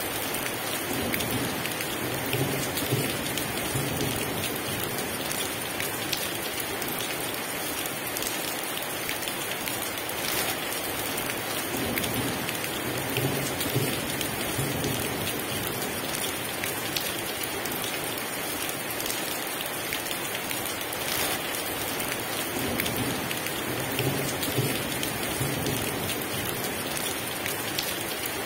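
Heavy rain pouring steadily, with low rumbles of distant thunder rolling in three times.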